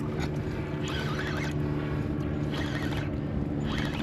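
A boat motor hums steadily, mixed with wind and water noise and short, irregular scratchy sounds.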